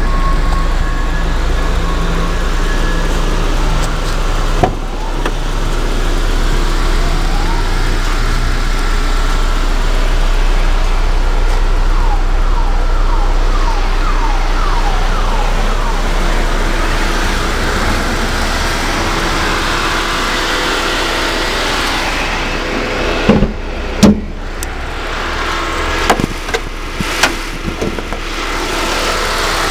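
Steady low hum of a vehicle engine running, with a few sharp knocks and thumps near the end.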